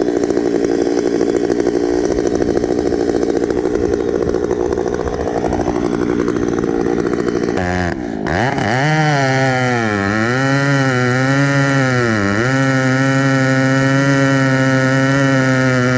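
Two-stroke chainsaw running at full throttle in a cut. About halfway through it gives way abruptly to a steady droning tone whose pitch dips and wavers for a few seconds, then holds level.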